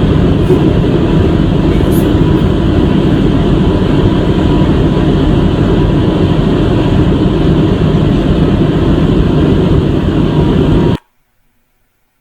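Steady engine and road noise of a moving vehicle, cutting off abruptly about eleven seconds in.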